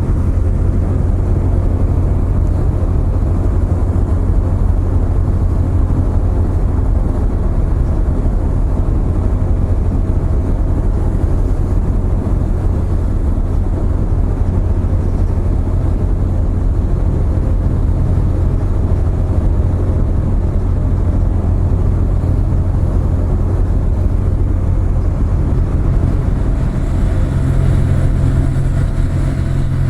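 Low, steady drone of a car ferry's diesel engines running at the berth, strengthening slightly near the end.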